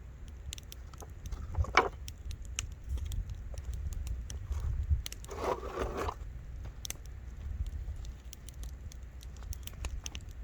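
Wood fire (campfire) crackling, with scattered sharp pops over a low steady rumble. A louder snap comes about two seconds in, and a brief, louder noisy burst lasts about a second past the middle.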